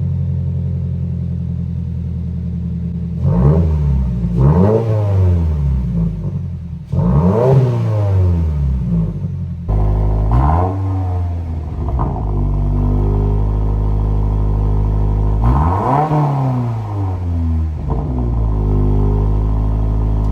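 Subaru WRX's turbocharged flat-four idling through an aftermarket cat-back exhaust, blipped to higher revs about five times, each rev climbing and dropping back to idle.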